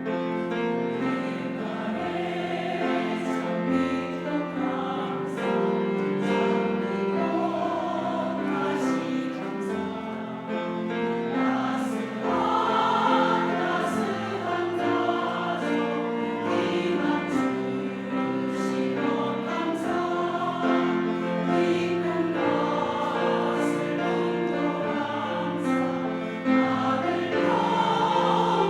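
Church choir singing an anthem in several harmonised parts, with sustained chords that shift from note to note.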